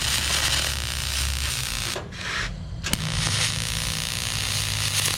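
Arc welder running on the boat's aluminium hull panel: a steady hiss over a low hum, with a short break about two seconds in and a sharp click a moment later.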